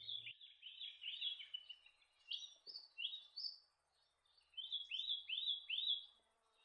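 Crested shrike-tit calling: three short phrases of about four quick whistled notes each, every note swelling up and then falling away, the middle phrase pitched higher than the other two.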